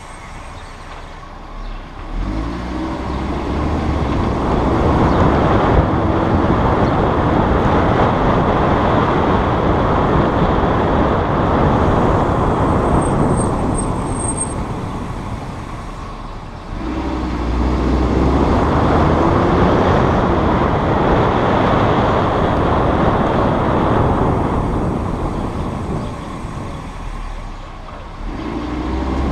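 Audi RS3 sedan's turbocharged five-cylinder engine pulling away twice, the engine note rising as it accelerates, first about two seconds in and again about halfway through. Each pull is followed by steady road and tyre noise that fades as the car slows.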